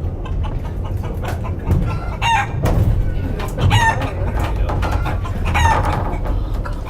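Chicken calls, three short squawks about a second and a half apart, over a steady low rumble.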